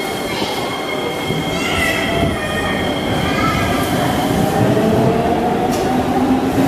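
East West Line MRT train moving off alongside the platform screen doors: a steady rail rumble with a motor whine that rises in pitch from about four seconds in as the train gathers speed. Brief high wavering squeals come about two to three seconds in.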